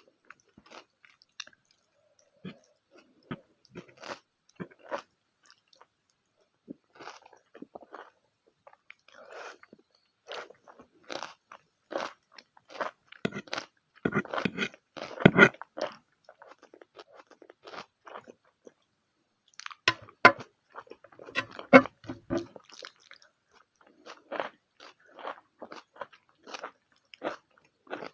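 A person chewing and biting a meal of spicy pork, egg and Maggi noodles: short crunchy clicks in irregular bursts, busiest around the middle and again about three quarters of the way through.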